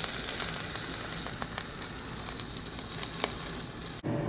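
Juices and fat sizzling and crackling around a freshly roasted whole chicken, a steady hiss with many small pops. It cuts off abruptly near the end.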